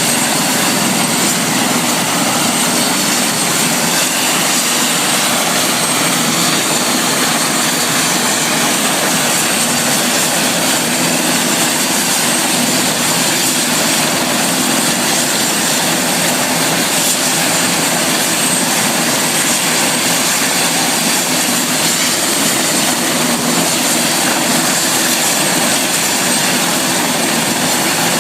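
Helicopter engine and rotor noise, loud and steady, with a faint high steady whine.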